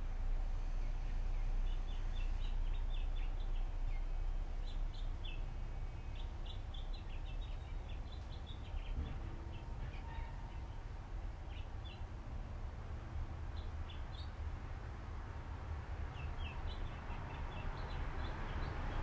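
Small birds chirping in short clusters of high notes over a steady low background rumble, which grows louder near the end.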